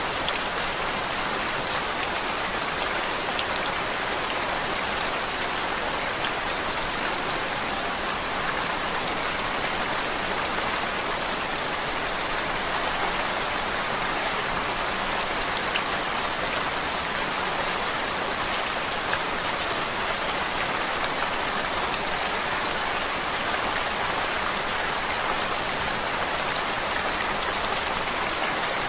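Steady rain falling on a surface, used as background noise: an even, unbroken hiss with faint scattered ticks of individual drops.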